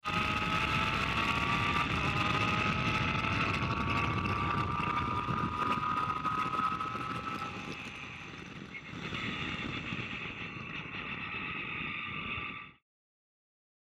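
Pro Mazda open-wheel race car engine at high revs, with its pitch slowly climbing for the first several seconds. It eases off briefly around eight seconds, then holds steady over a low rumble, and the sound cuts off abruptly near the end.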